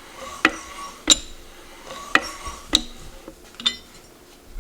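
Five sharp metallic clinks at uneven intervals, each ringing briefly: metal striking metal.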